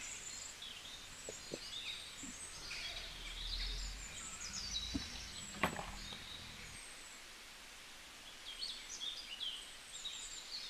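Faint outdoor ambience with birds chirping on and off, a few soft knocks, and one sharp click a little past the middle.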